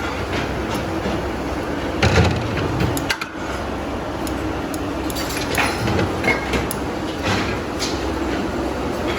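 Tire-factory machinery running with a steady low rumble, broken by several sharp clanks and knocks.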